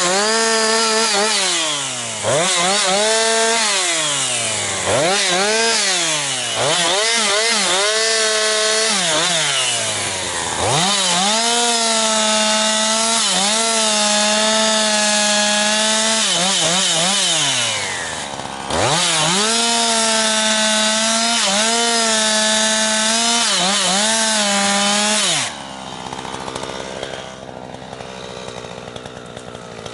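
Jonsered 2156 two-stroke chainsaw, its rebuilt Walbro HDA199 carburettor running it cleanly, cutting firewood. The engine revs up and falls back again and again, then holds at high revs through two long cuts with its pitch dipping a little under load, and drops away a few seconds before the end.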